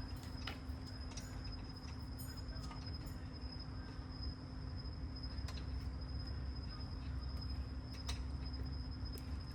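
Steady background hum with a faint high whine, and a few light clicks scattered through.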